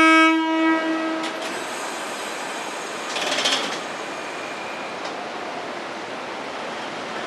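Kurobe Gorge Railway trolley train sounding its horn, one held note that cuts off just after the start and echoes away over about a second, then the train's steady running noise on the track, with a brief louder rattle about three seconds in.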